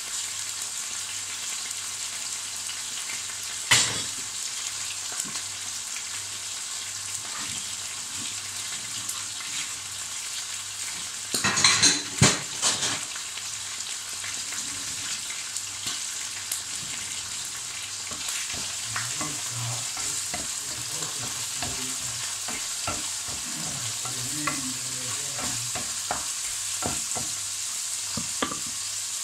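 Liver frying in a pan, a steady sizzle with small spatters. There is a sharp knock about four seconds in and a short burst of utensil clatter against the pan about twelve seconds in.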